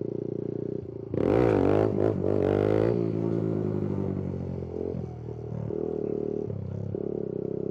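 Kawasaki Z125 Pro's small single-cylinder engine running steadily, then revved hard about a second in for a clutch-up wheelie, the revs climbing and falling for about two seconds before dropping back to a steadier run. The throttle comes off early, which the rider takes for letting off too soon.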